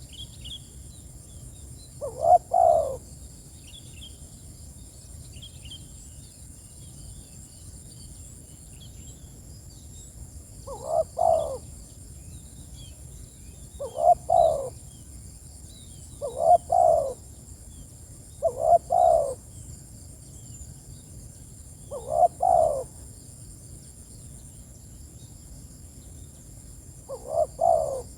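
Spotted dove cooing: seven short coos of a few quick notes each, spaced several seconds apart and unevenly. A steady high insect buzz runs underneath.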